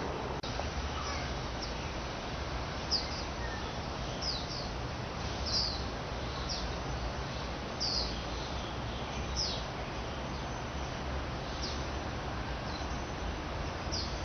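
Outdoor background noise with a steady low rumble and hiss, over which a bird gives short high chirps, a dozen or so, roughly once a second.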